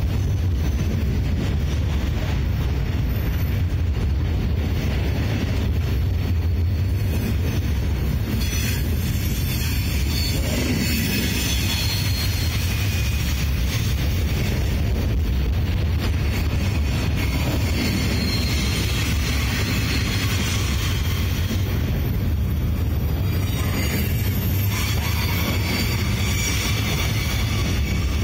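Freight train of open-top gondola cars rolling past close by: a steady, unbroken low rumble of steel wheels on rail. A brighter, higher-pitched wheel noise builds about ten seconds in and again near the end.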